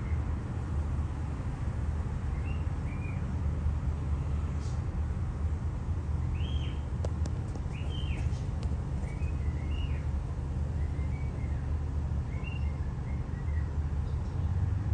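Small birds chirping in scattered short, rising-and-falling chirps over a steady low rumble, with a few faint ticks in the middle.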